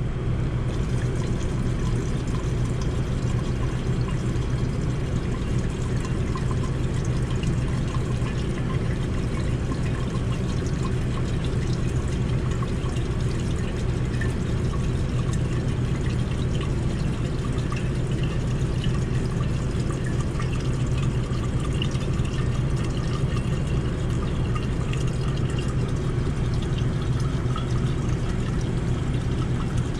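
Alcohol being poured and measured out into a jug, over a steady low hum that runs throughout.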